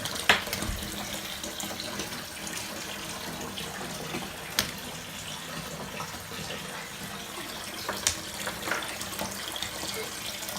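Water running from a tap into a bath being filled for an ice bath: a steady rush of water, broken three times by a sharp click.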